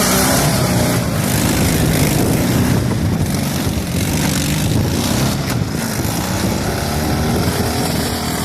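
Dnepr sidecar motorcycle's flat-twin engine running hard, its revs rising and falling repeatedly under throttle.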